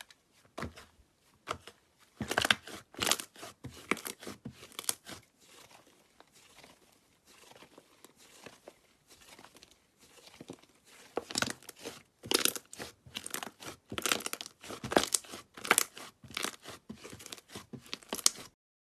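Slime being squeezed, pressed and pulled by hand, giving bursts of sharp crackling and popping clicks. The clicks are quieter for a few seconds in the middle and stop shortly before the end.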